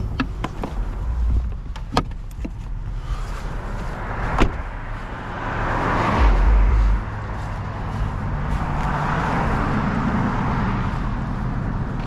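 A truck engine running steadily, with two sharp knocks about two and four and a half seconds in and a rushing hiss that swells and fades twice; a deep rumble under the first swell stops abruptly.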